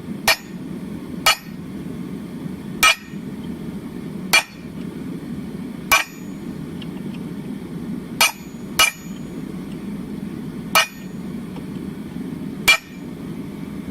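Hammer striking a ball fuller to set the center vein in a thin hot steel leaf: nine sharp metallic blows at an uneven pace, about one to two seconds apart, some with a short high ring. A steady low hum runs underneath.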